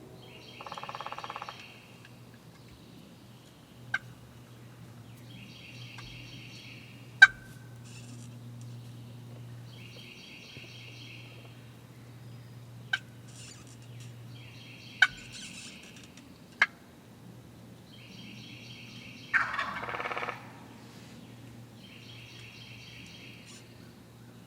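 Wild turkey gobbler gobbling: a rattling gobble about half a second in and a louder one about 19 seconds in. Between them a higher, rattly call repeats every four seconds or so, and a few sharp clicks cut in.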